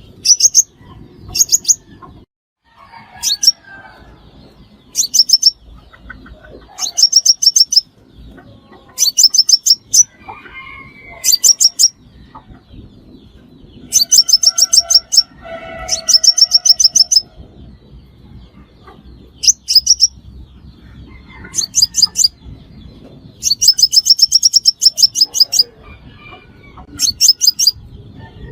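Sunbird calling: loud, repeated bursts of rapid, very high chipping notes, each burst about half a second to two seconds long, one every second or two. This is the call used as a decoy to lure sunbirds into a trap.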